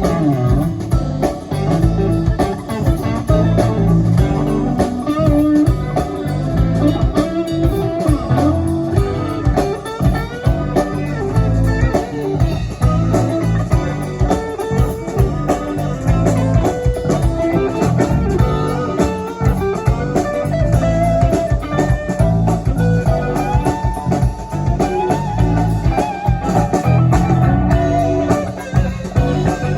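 Live rock band playing an instrumental passage, guitar to the fore over bass guitar and drum kit, in a bluesy style.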